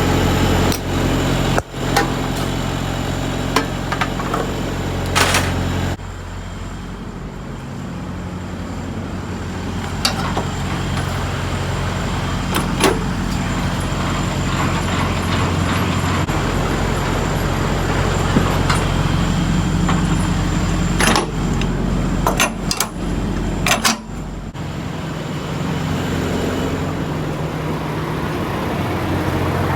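Semi truck's diesel engine running steadily, with a handful of sharp clicks and knocks scattered through; the engine note drops and changes about six seconds in.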